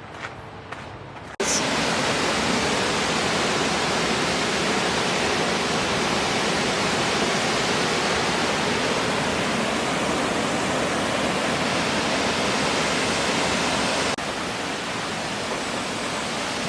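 Waterfall: a steady, loud rush of falling water that starts suddenly about a second and a half in and drops slightly in level near the end.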